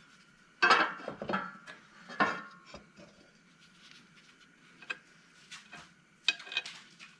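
Metal clanking and clinking as a lawnmower blade and its mounting bolt are handled and fitted, with three louder clanks (just under a second in, about two seconds in, and near the end) and lighter clicks between.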